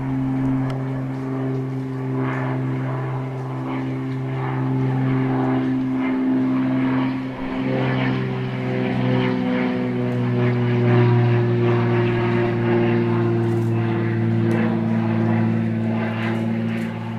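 Propeller airplane flying overhead, a loud low steady drone whose pitch sinks slightly as it passes.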